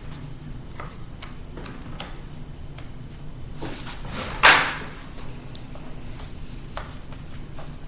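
Small clicks and taps of a screwdriver and hands working screws out of a laptop's case, with one loud scrape or slide about halfway through.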